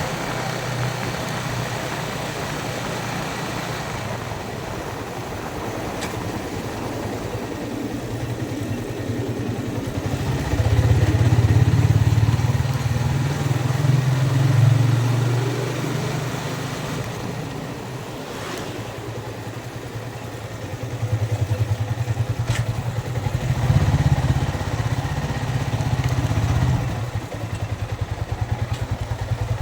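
Yamaha Vixion's single-cylinder engine running as the motorcycle is ridden at low speed, the engine note growing louder twice, about ten seconds in and again after about twenty seconds, and easing off in between.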